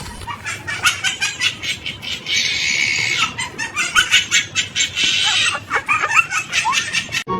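Birds calling in a rapid flurry of short chirps and squawks, with two harsher, longer squawks in the middle.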